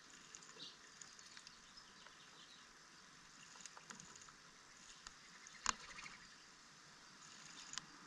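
Small birds at a bird bath: faint light pattering and splashing with scattered ticks, and one sharp tap a little past the middle.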